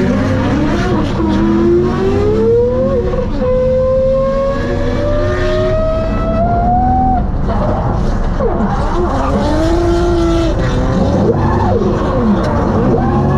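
LS V8-swapped BMW 135i engine revving hard while drifting, heard from inside the cabin: the note climbs steadily for about six seconds, then rises and falls quickly as the throttle is worked, with the tyres squealing.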